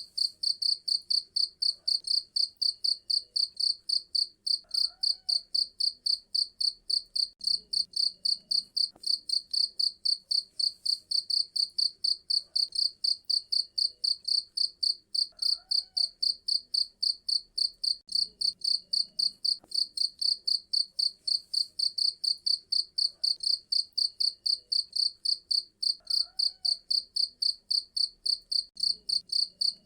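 A cricket chirping continuously: a shrill, high-pitched pulse repeated evenly several times a second, without a break.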